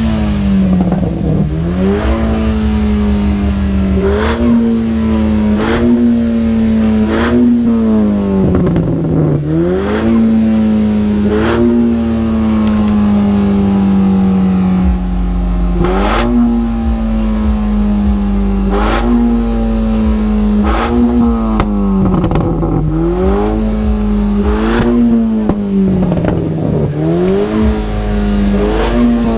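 Tuned car engine revved in repeated short blips, more than a dozen times, each with a sharp crack, between stretches of a steady drone.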